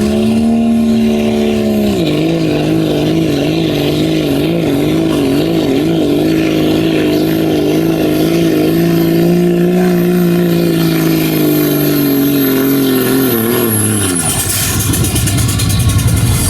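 Diesel pickup truck engine running at full throttle under heavy load, as in a sled pull, with a high whistle over it. The engine note drops about two seconds in, wavers as the truck works, then falls away about fourteen seconds in as the throttle is let off.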